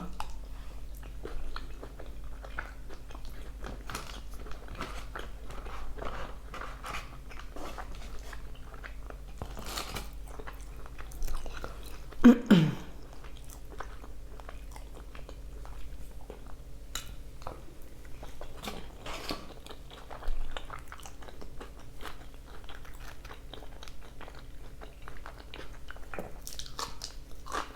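Close-miked chewing and crunching of carne asada fries, with many small irregular mouth clicks. There is a brief louder mouth sound about twelve seconds in.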